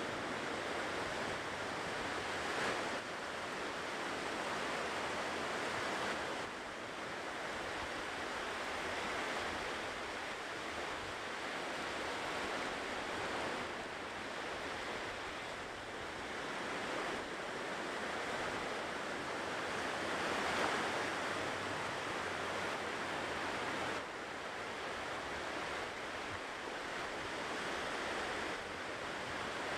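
Ocean surf washing onto the shore in a steady hiss that swells and eases every few seconds, with a louder surge about three seconds in and another about two-thirds of the way through.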